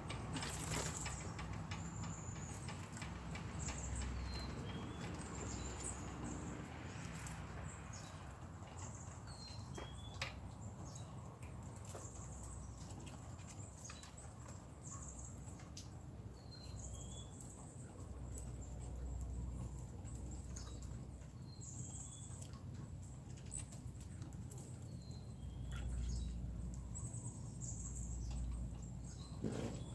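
Outdoor birds giving short high chirps that fall in pitch, scattered every few seconds, over light ticking and patter and a low steady rumble.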